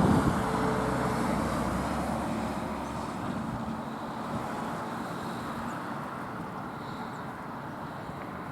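A road vehicle passing and receding, its noise fading steadily into distant traffic hum.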